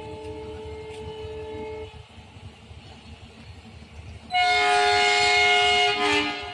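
Train horn sounding twice: a moderate steady blast that ends about two seconds in, then a much louder, brassier blast of nearly two seconds near the end, over a low rumble of rail noise.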